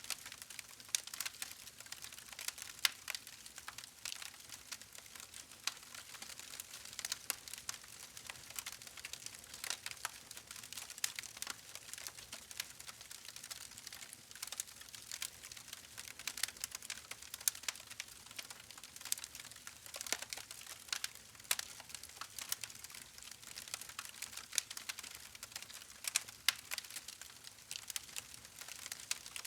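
Wood fire crackling: a steady patter of small irregular pops and snaps over a soft hiss, with a few louder snaps scattered through.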